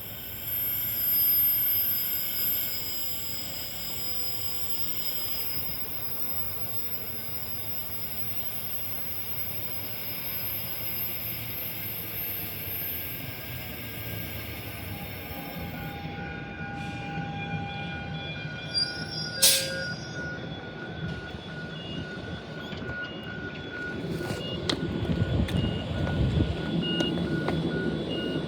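Queensland Rail electric suburban train running at a station. Steady high-pitched squealing tones fill the first half and stop about halfway through. A single sharp clank comes near 20 seconds, and the low rumble grows louder near the end.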